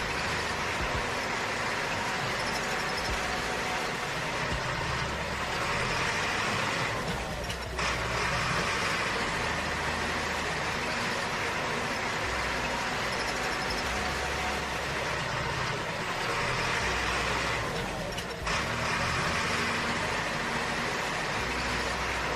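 A small motor running steadily, dropping out briefly twice.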